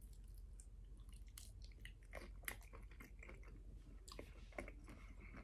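Faint chewing of a mouthful of shrimp in cocktail sauce: scattered soft wet mouth clicks and smacks, with one sharper click about two and a half seconds in.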